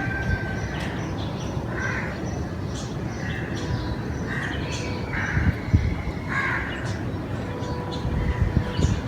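Crows cawing: a series of short, harsh caws, some in quick pairs, over a steady low background rumble.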